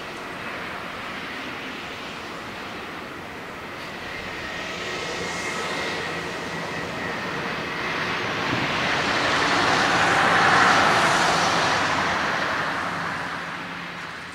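Jet engines of a Boeing 777-300ER (two GE90-115B turbofans) at takeoff thrust: a broad roar with a faint whine that swells to its loudest past the middle, then fades near the end.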